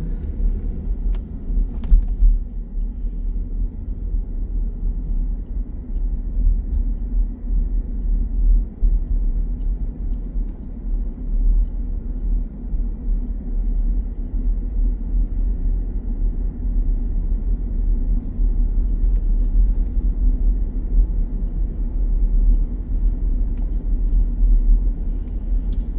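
Steady low rumble of a car driving, heard from inside the cabin, with a couple of faint clicks about two seconds in.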